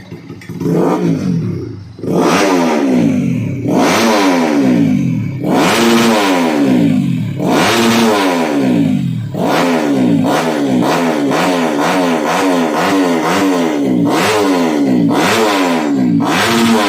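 Bored-out underbone race motorcycle with a Shadow racing exhaust, revved in repeated throttle blips: the pitch jumps up and drops back about a dozen times, the blips coming quicker from the middle on.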